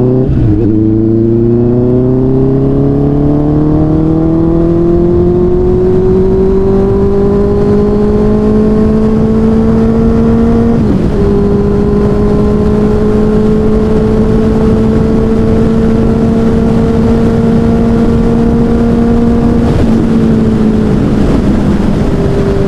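Honda CB650R's inline-four engine, fitted with an aftermarket Daivo exhaust, running under way on the road. Its pitch climbs slowly for about the first ten seconds, dips briefly at a gear change, then holds steady, with another short dip near the end. Wind noise rushes on the microphone.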